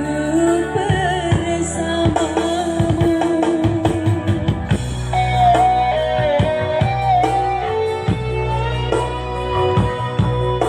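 Live band music: a held, sliding melody line over steady bass, with guitar and drum hits.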